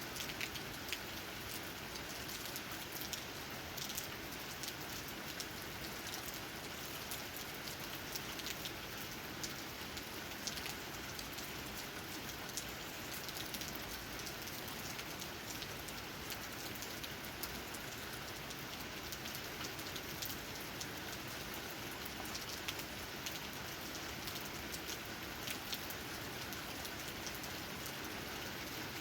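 Steady rain falling, with many separate drops tapping on leaves over a continuous hiss.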